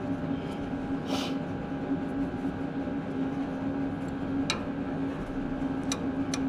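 A steady mechanical hum holding one pitch, with a brief scrape about a second in and a few light clicks near the end.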